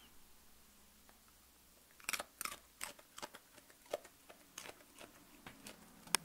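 A dog crunching and chewing raw carrot: quiet at first, then a string of sharp, irregular crunches starting about two seconds in.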